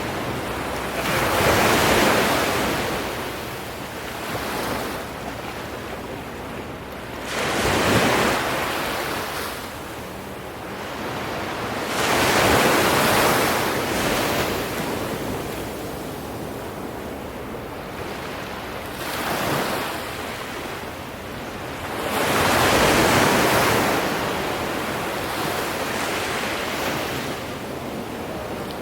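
Ocean waves breaking and washing in, the rush of surf swelling and fading five times, several seconds apart.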